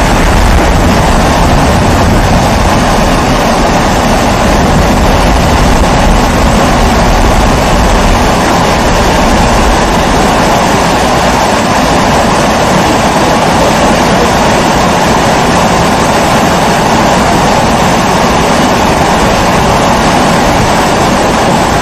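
Pressurized kerosene (primus-type) stove burning with a loud, steady rushing noise.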